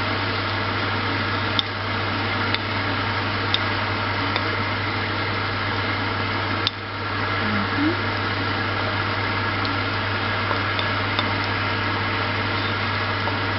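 Chicken, basil and bamboo shoots sizzling in a large pan over high heat, with a steady low hum beneath and a few sharp clicks of the spatula against the pan.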